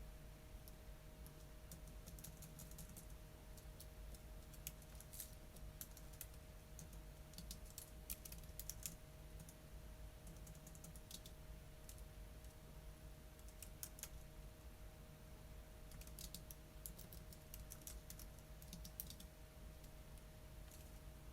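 Quiet typing on a computer keyboard, in short runs of key clicks with pauses between them, over a faint steady hum.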